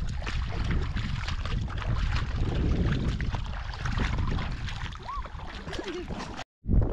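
Wind buffeting the microphone over water splashing and knocking around a canoe on the river. The sound cuts off abruptly about six and a half seconds in.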